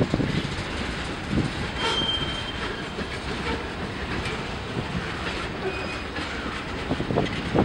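Railroad cars rolling over the track, wheels knocking over rail joints with a rumble. A brief high wheel squeal comes about two seconds in.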